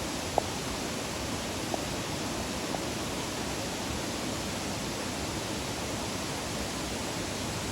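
Waterfall rushing in a steady, even roar of falling water, with a few faint short ticks in the first three seconds.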